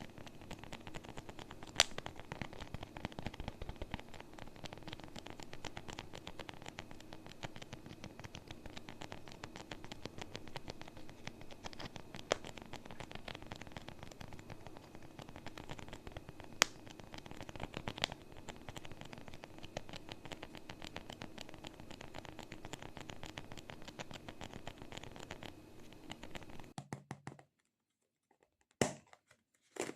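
Close-miked ASMR handling sounds: a dense, continuous run of fine crackling and scratching with a few sharper pops, stopping abruptly about 27 seconds in, followed by a second of silence and then a few separate taps and rustles.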